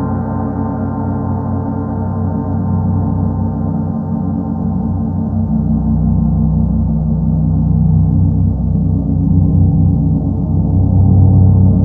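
Paiste Sedna planet gong rumbling: a dense mass of sustained low tones that swells gradually louder over the second half.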